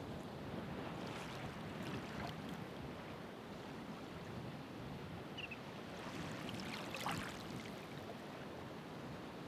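Ocean surf washing onto the shore: a steady rush of water, with brief fizzing splashes, the clearest about seven seconds in.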